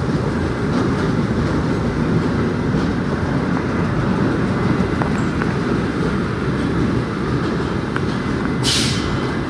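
New York City subway train running with a steady rumble, and a short burst of hiss near the end.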